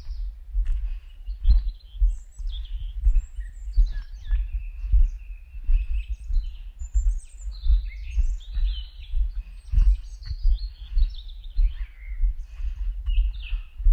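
Several small songbirds chirping and trilling in a forest, with low, irregular thuds about once or twice a second, typical of footsteps of someone walking.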